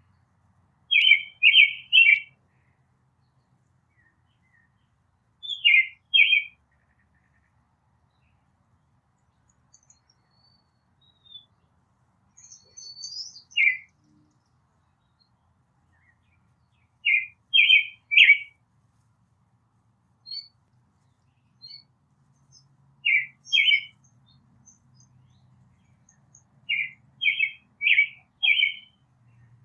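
A songbird calling in short phrases of two to four quick, clear, loud notes, repeated every few seconds, with fainter high chirps from other birds between them.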